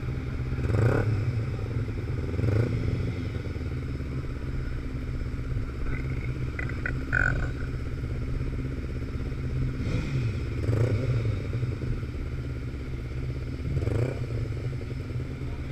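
Motorcycle engines running steadily, with several short rises and falls in pitch from bikes revving or passing, about four times.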